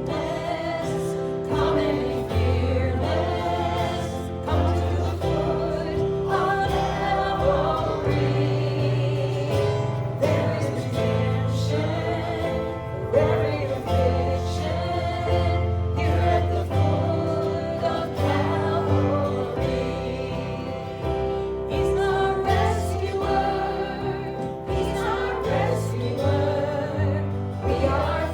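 A group of voices singing a gospel worship song with instrumental backing and a steady bass line.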